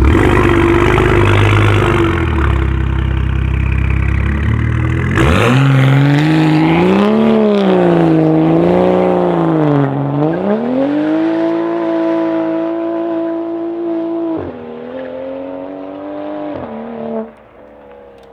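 Straight-piped BMW 335i's turbocharged straight-six running hard and loud, at first as a rough, noisy roar. About five seconds in it turns into a clear engine note held at high revs, its pitch swinging up and down and then steadying. Near the end the revs drop in two steps and the sound falls away.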